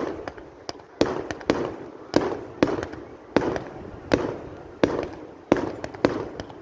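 Display fireworks going off in quick succession: about ten sharp bangs, each trailing off in a rumbling echo.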